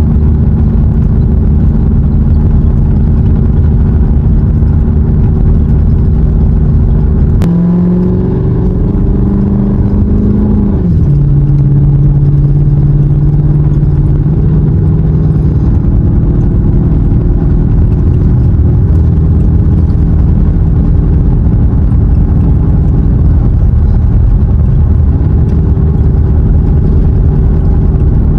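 Car engine running steadily. About eight seconds in the engine note shifts and wavers, then settles into a new steady pitch for the rest of the time.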